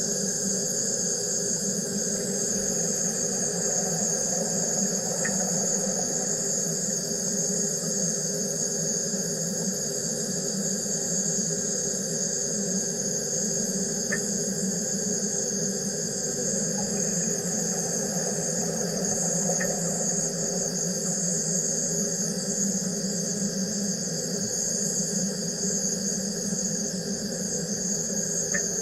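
Wire EDM machine cutting, a steady high-pitched whine over a lower hum, with a faint tick now and then.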